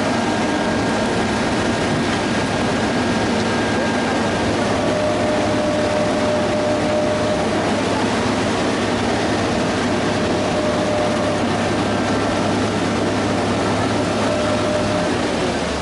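Heavy diesel construction machinery running steadily, a dense, even engine noise with a low hum and faint held whining tones.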